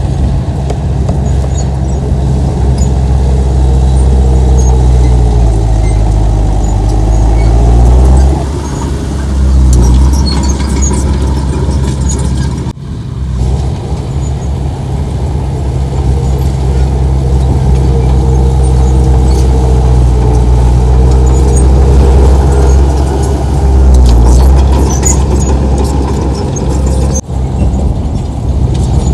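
Heavy diesel earthmoving machinery running loud under load, the engine note sagging and then climbing back twice, as when a bulldozer pushes soil.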